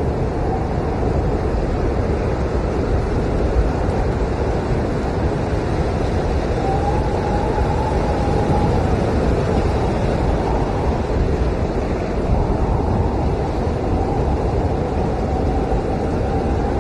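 Blizzard wind howling, a steady low rush with a faint whistling note that swells and fades twice.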